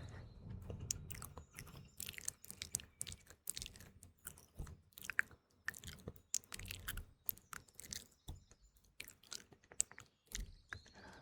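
Close-miked ASMR mouth sounds: a dense, irregular run of wet clicks and smacks, with faint birdsong behind.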